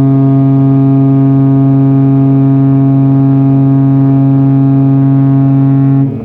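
Cruise ship Costa Pacifica's horn sounding one long, deep, steady blast that cuts off suddenly near the end. It is the ship's departure signal as she leaves port.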